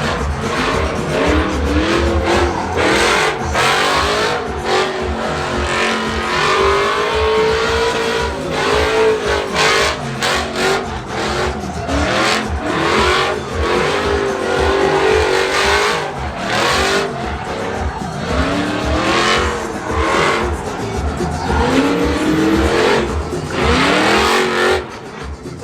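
Vehicle engines revving up and down again and again over a constant roar of tyre noise, with frequent sharp cracks.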